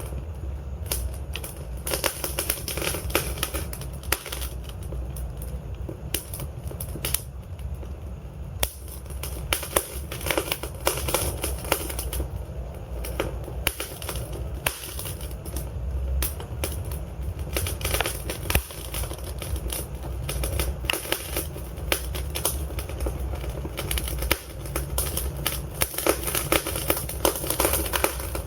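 Wood fire in a fireplace burning, with dense irregular crackles and pops over a low, steady rumble of flames.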